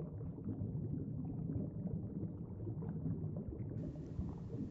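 Low, steady, rumbling background ambience with a faint bubbling, crackly texture, an underwater-style sound bed.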